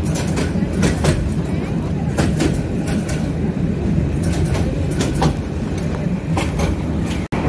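A train running past: a steady low rumble of the railcars with irregular clicks and knocks from the wheels. It cuts out for a moment near the end.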